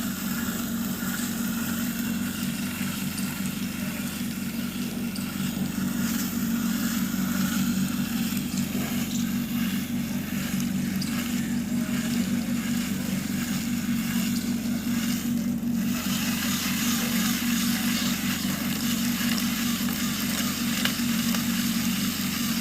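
Small electric gear motors of a toy RC 4×4 tractor running steadily with a constant low hum, under a hiss and crackle that drops out briefly about fifteen seconds in.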